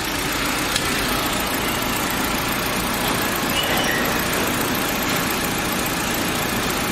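Car engine running steadily with the headlights and air conditioning switched on, loading the alternator for a charging-system test.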